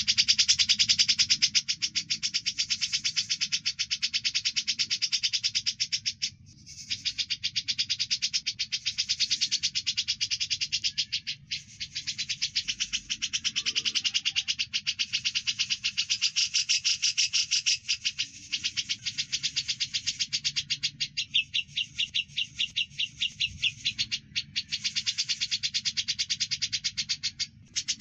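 Fast, continuous chattering chirps from a mixed recording of cucak jenggot (brown-cheeked bulbul) and Eurasian tree sparrow, used as masteran song for training cage birds. The chirps come in rapid even runs with a few brief pauses.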